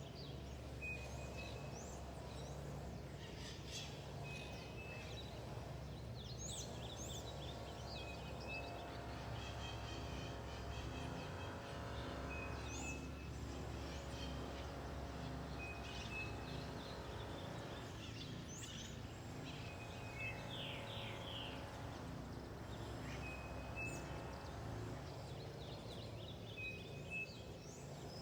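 Several birds chirping and calling in a forest, one of them repeating a short high note about every four seconds, over a steady low background rumble.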